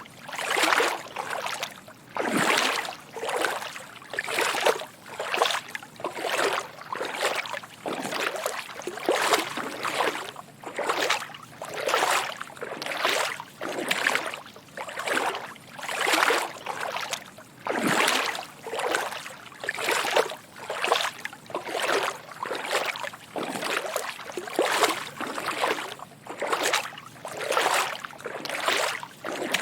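Footsteps wading through shallow water: a steady walking rhythm of soft sloshes and splashes, about one a second.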